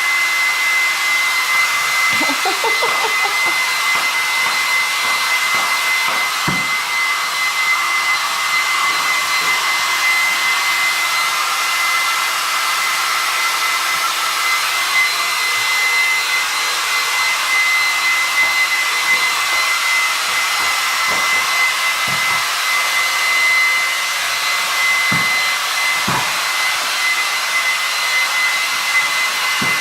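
Electric hair dryer blowing continuously, with a steady high whine over the rush of air. A few short knocks sound now and then over it.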